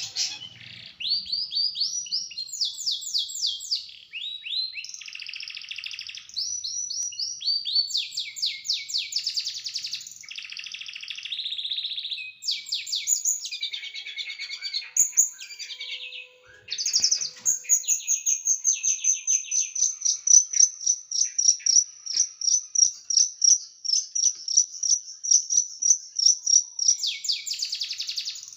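Small songbird singing dense, sharp, rapid runs of notes, the fast 'shooting' phrases used to tutor cage birds: varied trills and chattering bursts at first, then a long steady series of quick repeated high notes from about halfway on.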